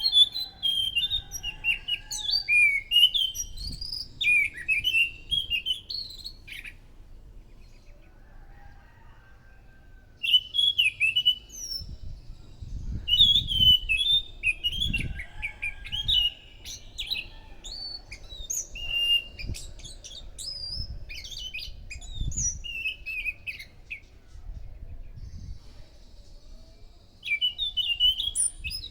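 Anis macan thrush singing in bouts of quick, varied chirping and whistled phrases, with short pauses between bouts. Some low thumps sound underneath.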